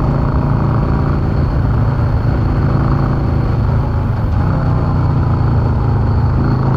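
Yamaha V-Star 650's V-twin engine running steadily at cruising speed. About four seconds in it briefly eases off, then picks up again.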